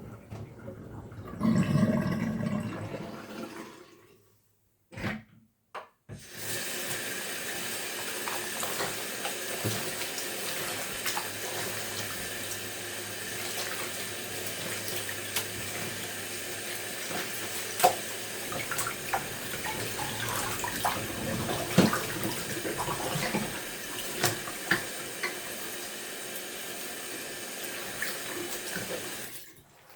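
Tap water running into a bathroom sink while fabric dog diapers are hand-washed, with scattered small knocks from handling. There is a brief gap about four to six seconds in.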